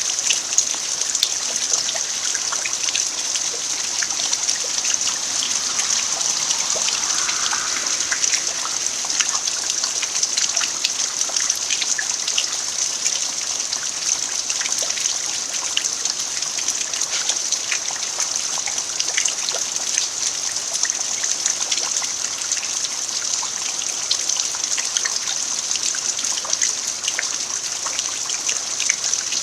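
Steady rain falling on an earthen yard, an even hiss dotted with countless small drop ticks, mixed with a trickle of running water.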